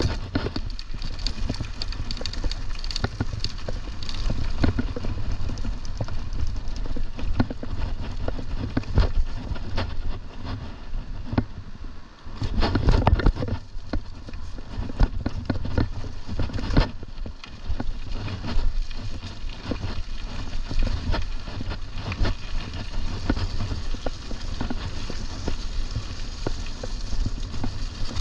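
Mountain bike ridden over rough trail, with constant tyre noise and a steady run of rattling clicks and knocks, and wind rumbling on the microphone. A louder rough patch comes about halfway through.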